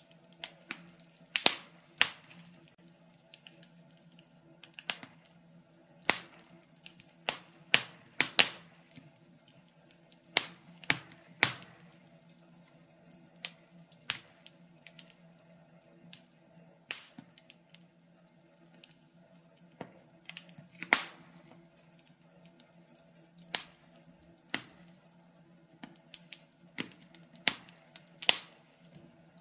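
Wood fire in a fireplace crackling, with sharp irregular pops and snaps every second or so over a faint steady hum.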